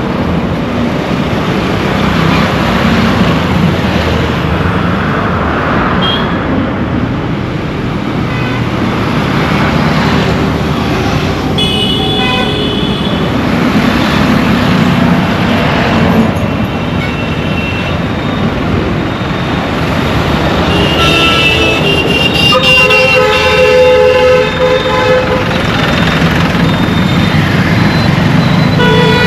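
Busy Indian road traffic: a steady rumble of engines and tyres, with vehicle horns honking, briefly a little under halfway through and then several horns at once, loudest, in a stretch past the two-thirds mark.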